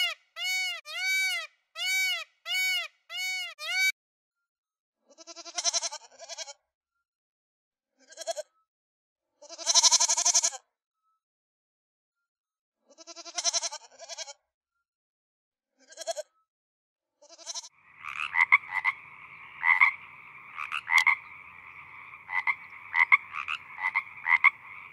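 A sequence of animal calls: first a quick run of identical short, arching pitched calls, then several separate bleat-like calls with silent gaps between them, then in the last several seconds a dense chorus of frogs croaking.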